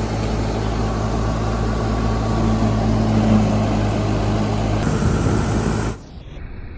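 Clayson 8080 combine harvester running steadily, a loud engine drone with a deep even hum. About six seconds in it cuts off abruptly to a much quieter background.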